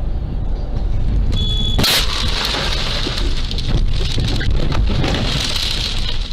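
Vehicle running with road rumble. About two seconds in, a brief high tone is cut off by a sudden loud bang, typical of a car collision. Several seconds of dense crackling, rattling noise follow.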